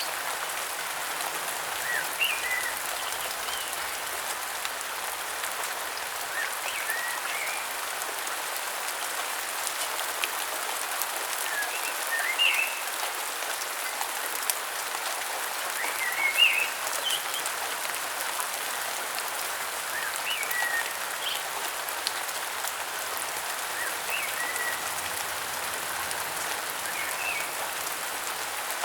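Steady rain falling, with birds giving short chirping calls every few seconds.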